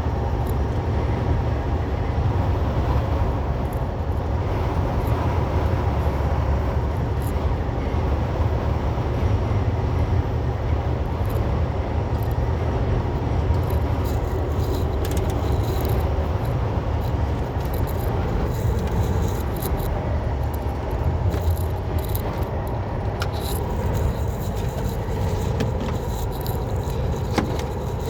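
Semi truck's engine and road noise droning steadily inside the cab while driving, with occasional light clicks and rattles.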